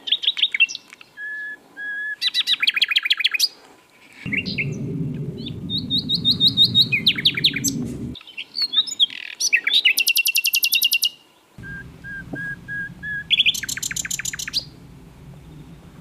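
Common nightingale singing in separate phrases: clear held whistles, then fast runs of repeated notes and rapid trills, with short pauses between. A low rumble of background noise sets in about four seconds in, stops around eight seconds, and returns near twelve seconds.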